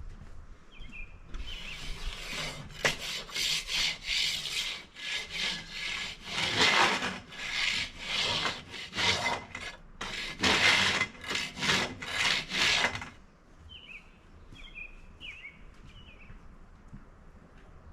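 Repeated rough scraping strokes on wood, irregular and a little under a second apart, stopping about thirteen seconds in. A few short bird chirps come before and after.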